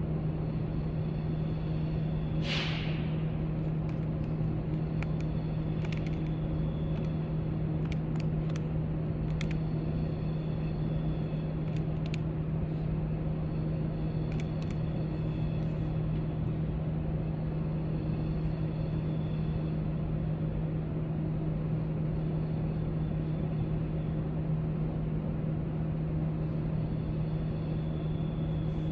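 Steady low room hum with a few steady tones over it, broken by a handful of faint clicks and taps and a brief swish about two and a half seconds in.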